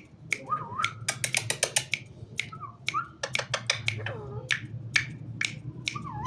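Pet parrot giving short whistled calls that bend in pitch, among a rapid run of sharp clicks, densest about a second in.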